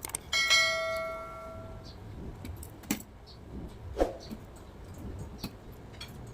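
A small metal object clinks against a hard surface and rings for about a second and a half. This is followed by a few light clicks and knocks of small parts and tools being handled during kit assembly.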